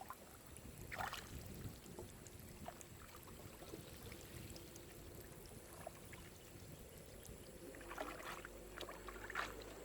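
Faint water splashing and trickling as a fishing net is handled in the water, with a few short splashes at about a second in and a cluster near the end.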